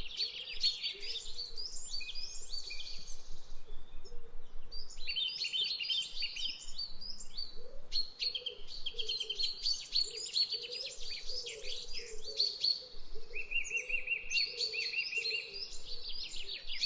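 Several small birds chirping and singing at once: a dense chorus of quick high chirps and trills, with a steady rapid trill near the end and a softer, lower call repeating underneath.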